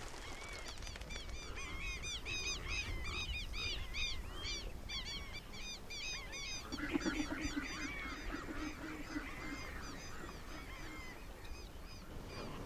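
A flock of birds calling together: a dense chorus of many short, high calls, with lower, deeper calls joining about seven seconds in.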